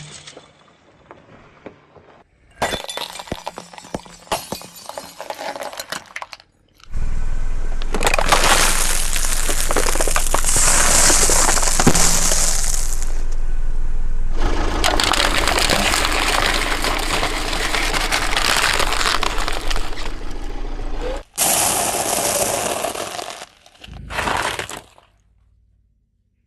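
Objects cracking and breaking as a car's tyres crush them, in several separate takes. First comes a stretch of scattered crackling. The longest and loudest stretch has a low rumble beneath the crunching, and two shorter loud bursts follow near the end.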